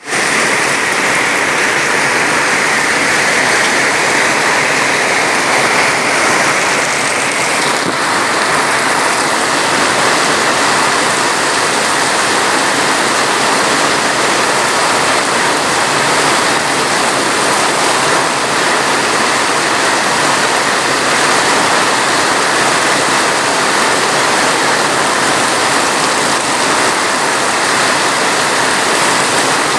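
Steady rain falling, a dense, even hiss of water with no pauses.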